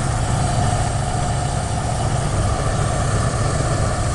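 1980 Ford F-100's 302 V8 idling steadily on a remanufactured Motorcraft two-barrel carburetor that is still being adjusted. The owner says the engine is still missing and still sucking air, a misfire and a vacuum leak.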